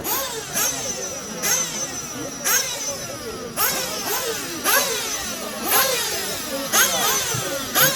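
Several 1/8-scale nitro off-road buggy engines running on the track, high-pitched and overlapping. Each rev rises, then falls away in pitch as the throttle is lifted, about once a second.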